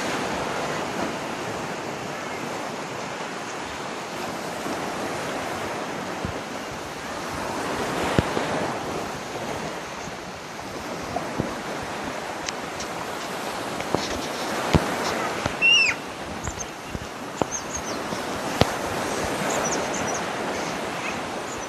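Steady rush of falling water from a waterfall, swelling and easing slightly. A few sharp clicks and a brief high chirp come through it about two-thirds of the way in.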